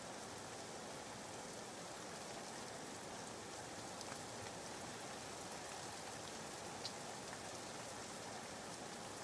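Soft, steady rain ambience: an even hiss of rainfall with a few faint drop ticks.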